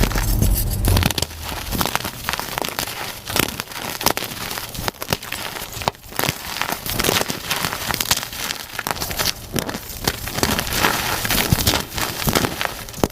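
Reformed gym chalk blocks being crushed, a dense run of irregular crunchy crackles, sped up to double speed.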